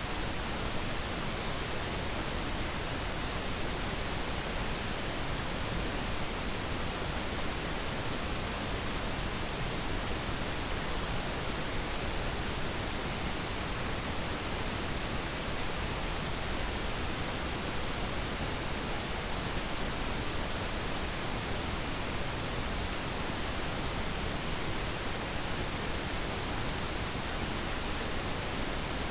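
Steady synthetic pink noise, an even hiss across the whole range with no changes or other events.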